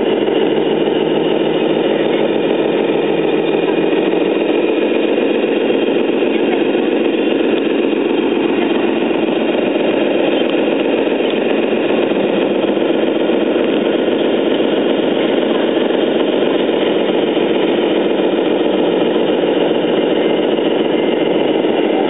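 Radio-controlled Scania truck running with a steady engine-like drone and a fine, rapid pulsing.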